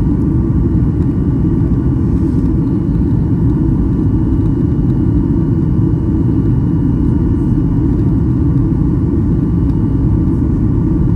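Steady, loud low rumble inside the passenger cabin of a Boeing 737-800 in flight: engine and airflow noise, with a faint thin whine held steady above it.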